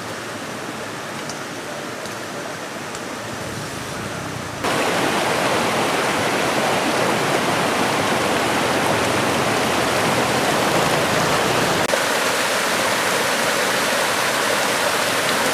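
Rushing floodwater in a swollen river, a steady dense noise of water that becomes abruptly louder about four and a half seconds in.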